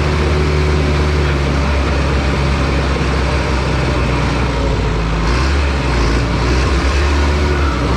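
Heavy diesel engine of a John Deere bulldozer running steadily, with a few light knocks about five to seven seconds in.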